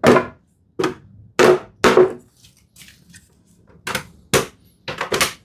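Hammer tapping on a wooden frame, about eight sharp knocks in uneven groups with a short pause in the middle, as dry-fitted mortise and tenon joints are knocked apart evenly from every side.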